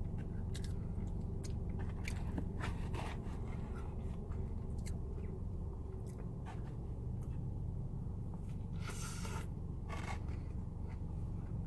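Close-up chewing and biting of food, with scattered small crunches and clicks and a brief rustling scrape about nine seconds in, over a steady low hum.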